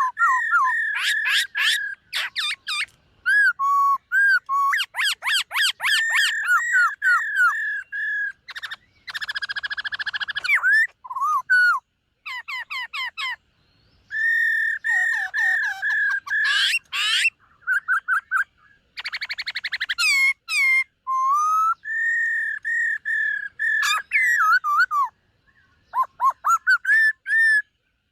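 Black-throated laughingthrush singing a loud, varied whistled song: clear held whistles, fast trills and sliding notes in phrases broken by short pauses.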